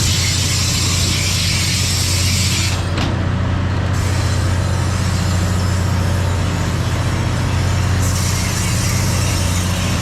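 A steady low engine drone with a constant hiss over it; the hiss briefly drops away about three seconds in.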